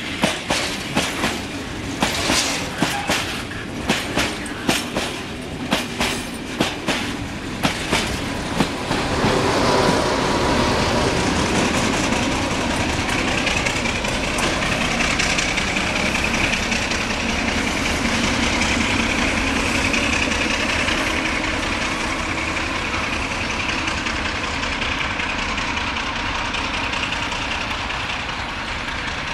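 Loaded tank wagons of a freight train rolling past close by, their wheels clicking in quick groups over the rail joints. About nine seconds in this gives way to the steady drone of an approaching Electroputere LDE2100 (060-DA) diesel locomotive, its Sulzer engine running.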